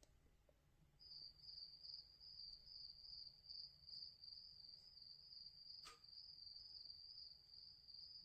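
Dreamegg Pocket Sleep 1 mini sound machine playing a cricket sound: a faint, steady high trill that starts about a second in, with a single click near the six-second mark.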